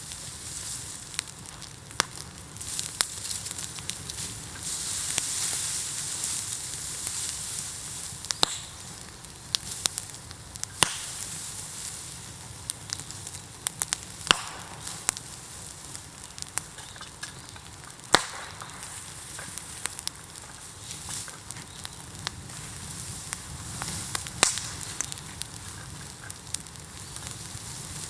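A heaped bamboo bonfire burning: steady hissing and crackling, with loud sharp cracks at irregular intervals. The hiss swells for a few seconds about five seconds in.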